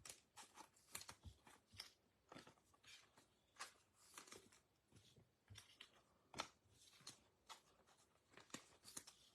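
Faint, scattered clicks and short rustles of trading cards and a foil pack wrapper being handled.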